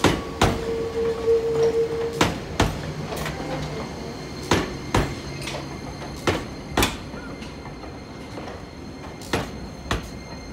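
Enoden two-car electric train rolling slowly over rail joints and points. The wheels clack in five pairs, each pair about half a second apart and the pairs about two seconds apart. A brief steady whine sounds in the first couple of seconds, then a low hum.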